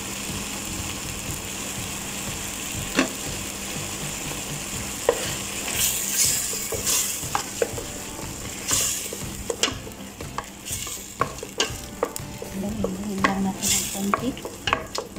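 Onion, tomato and tomato paste sizzling in hot oil in a stainless steel pot, with a wooden spatula stirring and scraping against the pot. The spatula's knocks and scrapes come often from about six seconds in.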